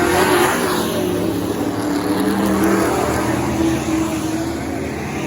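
Pro truck race engines running at speed on a short oval, several at once. A pack sweeps past about half a second in, then the sound eases off slowly as they pull away.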